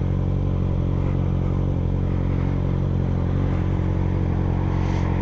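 Kawasaki ZX-6R 636 inline-four engine running at a steady speed while riding, its pitch holding level throughout.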